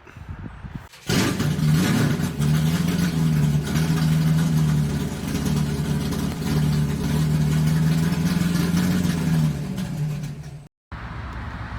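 An engine running steadily at a near-constant speed, a loud even hum that stops abruptly near the end.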